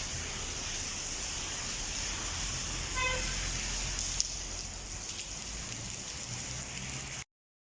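Heavy rain falling with a steady hiss over a low traffic rumble. A short car horn toot sounds about three seconds in, then a sharp click a second later. The sound cuts off abruptly near the end.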